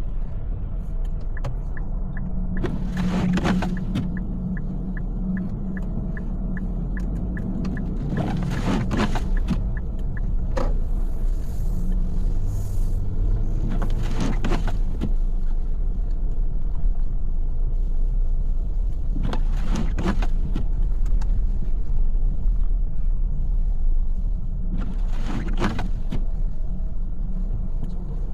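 Steady low rumble of a car's engine and tyres heard from inside the cabin while driving, with about five short whooshing swells a few seconds apart.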